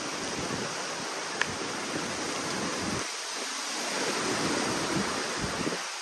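Hurricane wind gusting, a steady rushing noise with irregular low rumbling buffets of wind striking the microphone.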